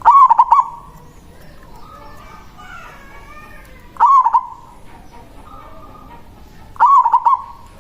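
Zebra dove (perkutut) cooing: three loud bursts of quick warbling coo notes, one near the start, one about four seconds in and one near the end, with fainter calls in between.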